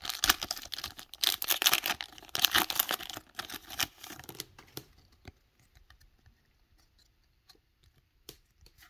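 Foil booster pack wrapper crinkling and tearing open for about four seconds, followed by a few faint taps and clicks as the cards are handled.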